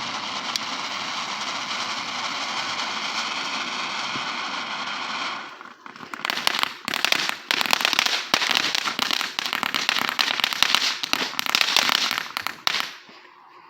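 Consumer firework going off: a steady spraying hiss for about five seconds, then a dense, rapid crackling for about seven seconds that stops suddenly.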